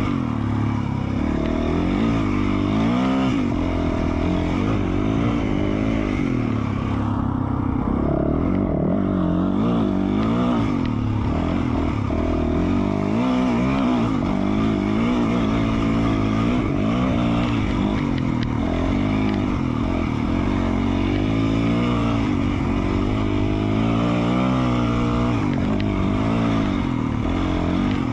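2020 Yamaha YZ450F's 450 cc single-cylinder four-stroke engine running through an FMF Q4 slip-on exhaust, its revs constantly rising and falling as the throttle is worked on a dirt trail.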